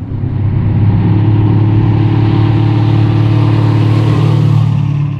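A car engine running loud and steady under load, its pitch holding level, then easing off to a quieter hum about four and a half seconds in.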